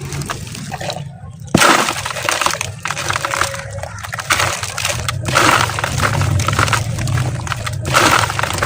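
Dry, dusty sand-cement lumps being crumbled, crunching and crackling in a series of bursts, the sharpest breaking about one and a half seconds in.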